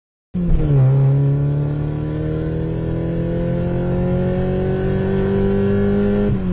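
Car engine sound effect: an engine accelerating, its pitch dipping briefly and then climbing slowly and steadily. It starts and stops abruptly.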